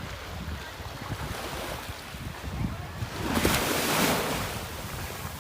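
Sea waves washing in, with wind buffeting the microphone; a wave breaks loudest about three and a half seconds in, then washes back down.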